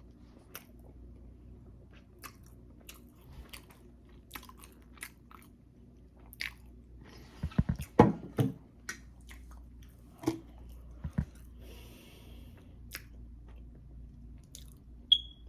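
Close-miked chewing and mouth sounds of someone eating, with soft wet clicks scattered through and a louder run of them about halfway. A short high ping sounds near the end.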